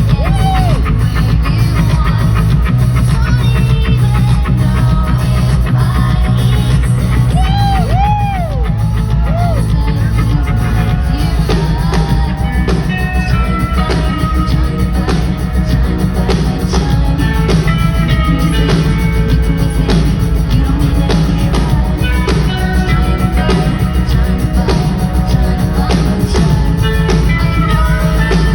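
Live pop-rock band music: a woman singing over a drum kit and heavy bass, played loud and steady.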